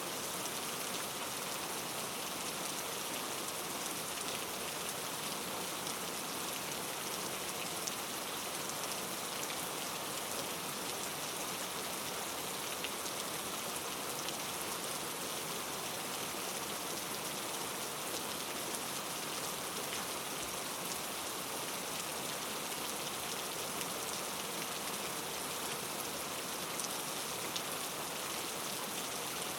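Steady, dense rainfall: an even hiss of rain with faint scattered drop ticks.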